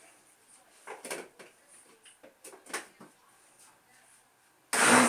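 A few light clicks and knocks, then near the end a kitchen blender switches on with a loud burst of whirring and stops after about half a second, a short pulse through thick pizza-dough batter of flour, eggs, milk and oil.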